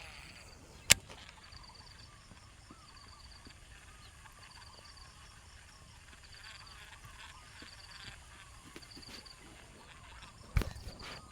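Insects chirping in short trills that repeat every second or so, over faint wavering calls in the background. A single sharp click about a second in and a knock near the end.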